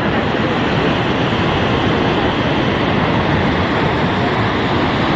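Steady rush of white water at the Karuma Falls rapids on the Nile.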